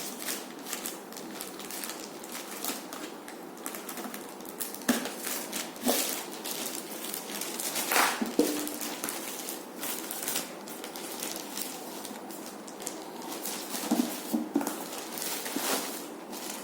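Irregular taps, clicks and rustles of a cardboard box and packaging being handled, with a few sharper knocks.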